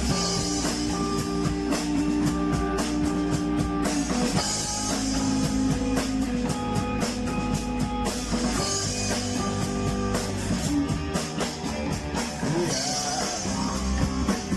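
Rock band playing an instrumental passage, with a drum kit keeping a steady beat under sustained guitar chords that change about every four seconds.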